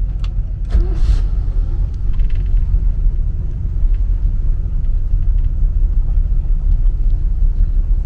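Twin Crusader 454 big-block V8 marine inboards idling with a steady low rumble. The second engine starts about a second in, and the level steps up as both run together.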